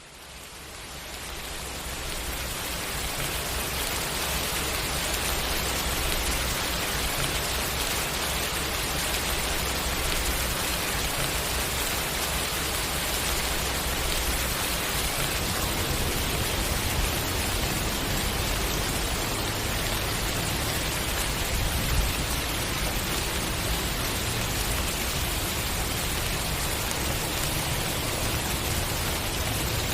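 Steady rain falling, an even hiss without a break, fading in from silence over the first couple of seconds.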